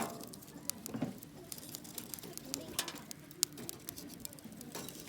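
Campfire wood crackling: irregular sharp pops and snaps, a few of them louder, over a low wavering background.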